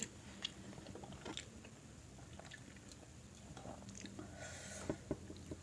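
Faint chewing and mouth sounds of a person eating, with scattered small clicks.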